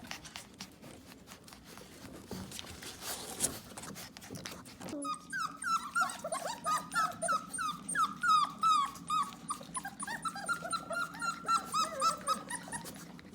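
Four-week-old puppy crying in a quick run of high, squeaky whimpers that starts about five seconds in, after faint rustling and clicks. The crying is taken as the puppy wanting to be held.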